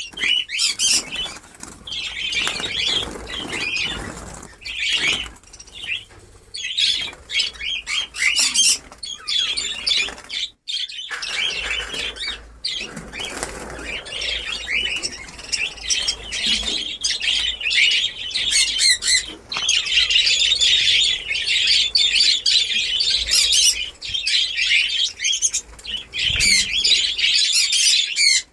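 A flock of budgerigars chattering continuously, with bursts of wing flapping as birds move about the colony cage.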